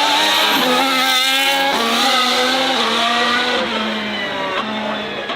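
A high-performance car engine running hard, its pitch stepping about once a second as it changes gear.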